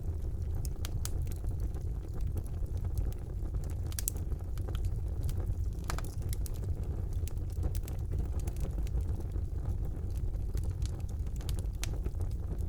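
Wood fire burning in a fireplace: a steady low rumble of the flames with irregular sharp crackles and pops from the logs, a few louder pops about four and six seconds in.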